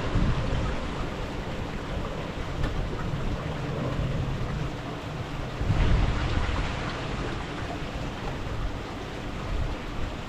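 Wind buffeting the microphone outdoors: a steady low rumble, with stronger gusts at the start and about six seconds in.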